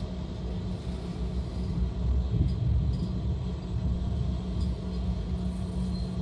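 N scale model train running on the layout track: a steady low rumble of the motor and wheels, with a few faint clicks over rail joints.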